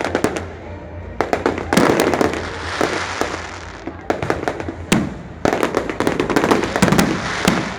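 Loud, rapid clusters of sharp cracks and pops, with a rushing noise between the volleys and a steady low hum underneath.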